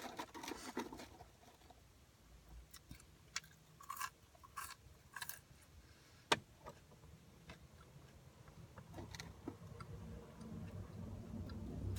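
A person eating at close range: short bites and crunches, with one sharp click about six seconds in. In the last few seconds this turns into steady chewing.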